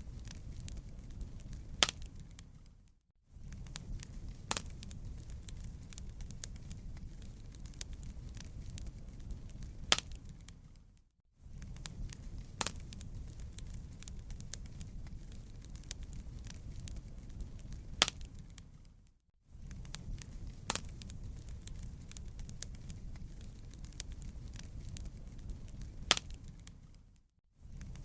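Wood fire crackling in a fireplace, with a low steady rumble and scattered sharp pops. The sound fades out and back in about every eight seconds.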